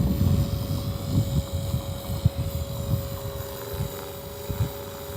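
Walkera V450D03 electric RC helicopter in flight: its motor and rotor give a steady whine, with a second, lower tone joining about halfway through. Gusty wind buffets the microphone, heaviest at the start.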